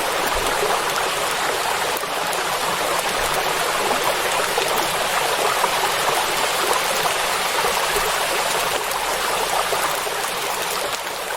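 Steady heavy rain pouring onto a lake's surface, an even dense wash of drops with no thunder, beginning to fade out near the end.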